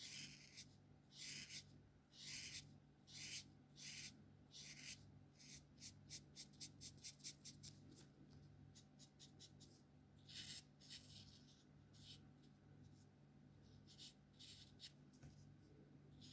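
Alcohol marker nibs stroking across paper while colouring: several separate strokes, then a quick run of short back-and-forth strokes in the middle, then a few scattered strokes near the end.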